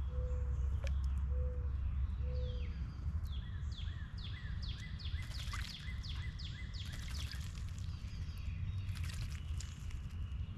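A songbird singing a quick run of about ten clear whistled notes, each sliding down in pitch, at roughly two or three a second. It is preceded by three short, low, soft hoots in the first few seconds, all over a steady low background rumble.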